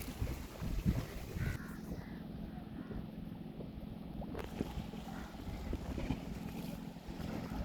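A boat's motor humming steadily, with wind rumbling on the microphone, strongest in the first second or so.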